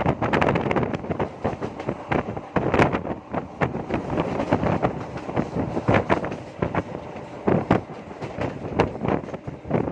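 MEMU electric passenger train running, with irregular knocks and rattles.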